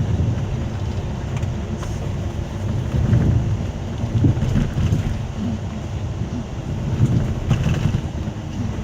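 Scania coach underway, heard from inside: a steady low rumble of diesel engine and road noise that swells and eases, with a few faint clicks.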